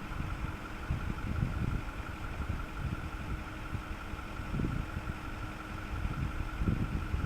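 Ford F-550 Super Duty crane truck's engine idling: a steady low rumble with uneven low surges and a faint steady high hum.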